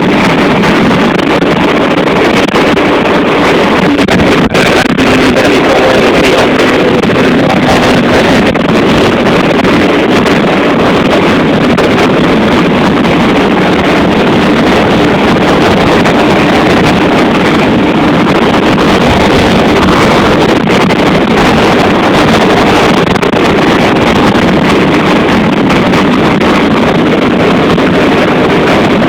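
Strong dust-storm wind blowing hard and steadily, buffeting the microphone into a loud, unbroken rushing noise.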